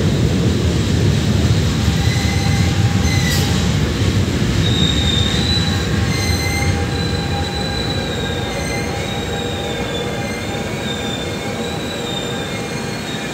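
Double-deck RER A commuter train moving along an underground platform: a steady low rumble that slowly fades. Thin high metallic wheel squeals come and go from about two seconds in.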